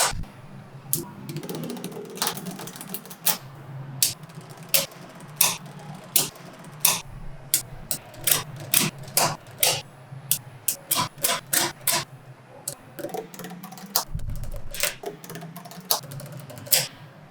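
Small neodymium magnetic balls snapping together: a run of sharp clicks at an irregular pace, a few a second, as the balls are placed one by one.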